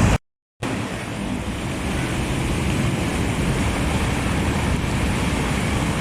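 A short cut to silence just after the start, then steady low rumbling wind noise in the open air by the sea, with no speech.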